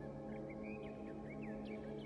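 Soft ambient background music of steady sustained tones, with short bird chirps over it.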